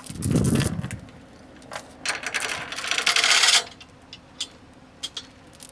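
Metal towing gear being handled: a dull thump, then a rattling metallic clatter lasting about a second and a half, with scattered clicks.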